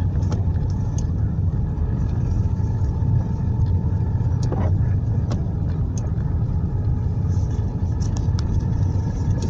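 A car running, a steady low rumble of engine and road noise with a few faint clicks.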